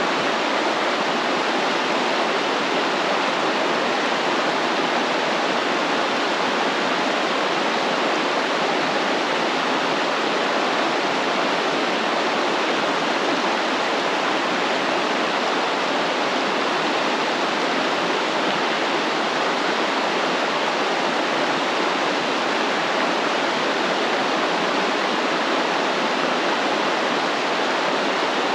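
Stream water flowing and splashing steadily, an even rushing with no breaks.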